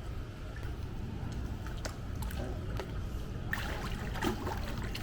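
Pool water sloshing and splashing around a person exercising in it, with a cluster of small splashes from about three and a half seconds in.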